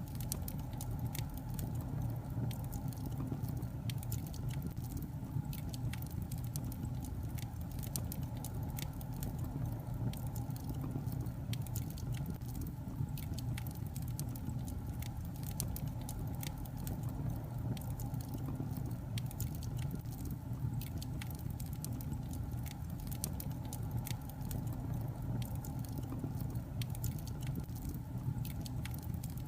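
Burning logs crackling in a fireplace: many irregular sharp snaps and pops over a steady low rumble of the flames.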